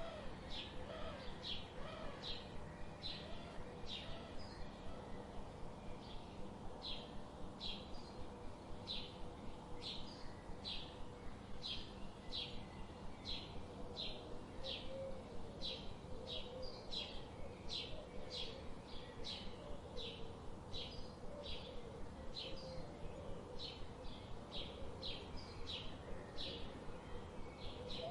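A bird chirping over and over, short high chirps coming a little more than once a second, over a steady low background hiss.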